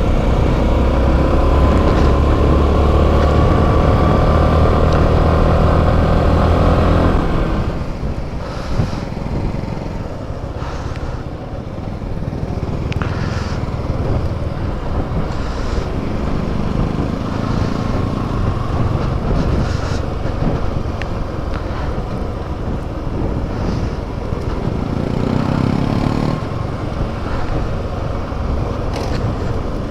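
Motorcycle engine running under way, its pitch rising steadily for about seven seconds, then dropping back to a quieter, noisier rush of wind and road with the engine lower beneath it.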